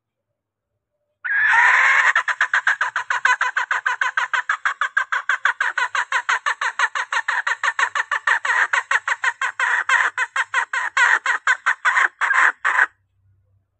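Female green junglefowl clucking in a fast, steady series of short notes, about five a second, that becomes slightly irregular near the end and then stops abruptly. This is a hen's call that draws in males.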